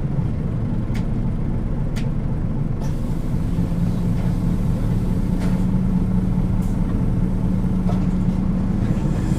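Inside a Nissan Diesel KL-UA452KAN city bus while it runs: a steady diesel engine drone with a low hum, a few light rattling clicks from the body.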